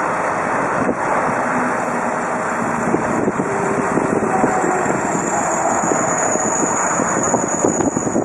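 Heavy machinery engine running steadily, mixed with wind buffeting the microphone. A faint high whine grows over the second half and stops suddenly at the end.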